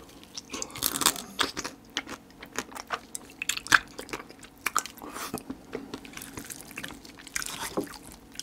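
Close-miked chewing and crunching of spicy marinated raw crab (yangnyeom gejang), with the shell crackling between the teeth in irregular sharp clicks.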